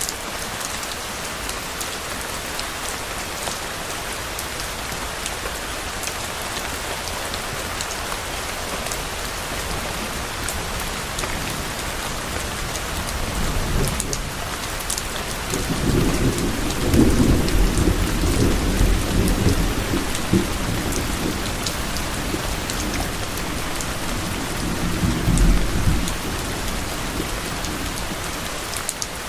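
Steady heavy rain falling, with individual drops ticking, and a low rumble of distant thunder that swells about halfway through and rolls for roughly ten seconds before fading.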